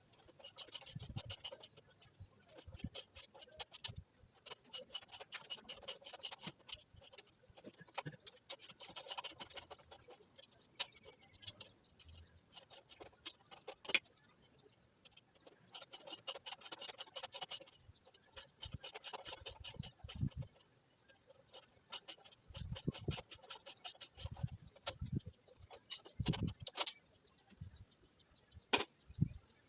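Hand tools and metal parts at work on a Honda Fan 125 motorcycle being dismantled: repeated runs of rapid metallic ticking, each a second or two long, among scattered clinks and a few dull knocks.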